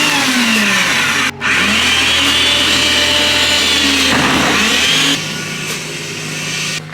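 Snowblower engine running loud, its pitch sliding up and down as it works. It cuts out for a moment about one and a half seconds in, and drops to a quieter steady hum about five seconds in.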